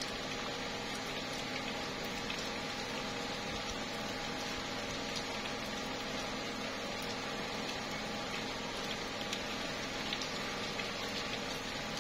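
Steady slow rain falling on tree leaves, with scattered drops ticking, over a faint steady hum.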